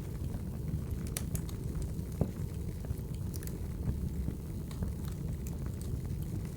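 Wood fire in a fireplace burning with a steady low rumble and scattered sharp crackles and pops, one louder pop about two seconds in.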